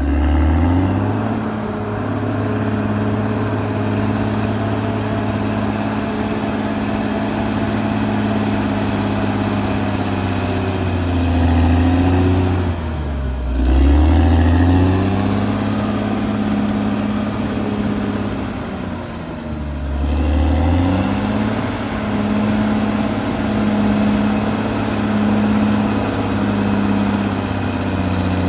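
Caterpillar D6R XL bulldozer's diesel engine running under work, its pitch sagging and rising back three times as engine speed drops and picks up again.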